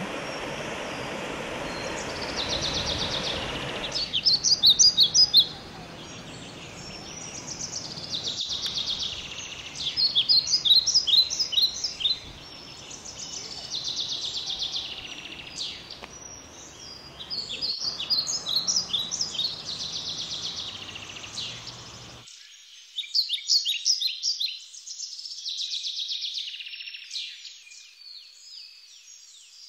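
A small mountain stream rushing over rocks, then from about four seconds in a songbird singing short phrases of quick high notes over and over, every two or three seconds. The background hiss drops out abruptly about 22 seconds in, leaving only the bird.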